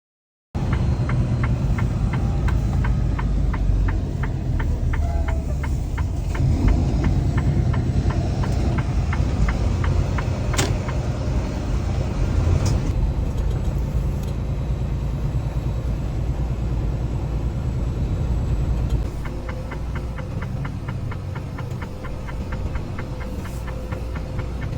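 Semi-truck's diesel engine running with a steady low rumble and fine rapid ticking, heard from inside the cab as the truck is driven. The sound steps down a little about nineteen seconds in.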